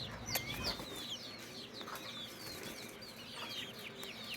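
Young chickens peeping: many short, high, falling peeps in quick succession, with a single sharp click about half a second in.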